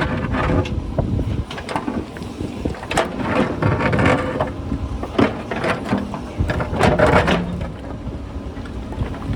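JCB backhoe loader's diesel engine working under load while its bucket scrapes and knocks against rock and loose stones clatter, with repeated sharp knocks, heaviest a few seconds in and again near the end.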